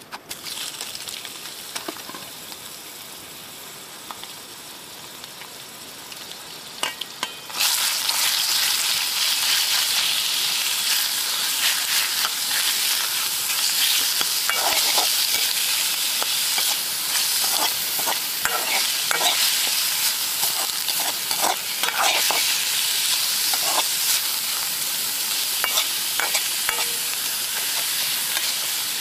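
Food frying and sizzling in an iron Chinese wok, with short scrapes and knocks of a utensil against the metal as it is stirred. The sizzle starts lighter and jumps much louder about seven seconds in.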